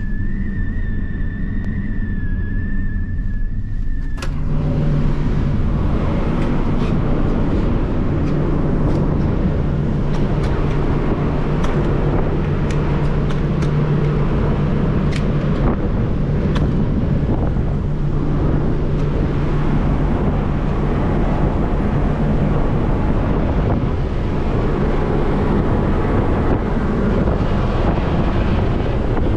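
Steady engine noise with a low hum. A thin high whine stops about four seconds in, and the sound then jumps to a louder, rougher rumble with a few scattered clicks.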